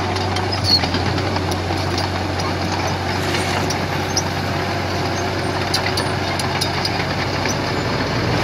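Komatsu PC75 excavator's diesel engine running steadily, with scattered light clicks and knocks over the engine sound.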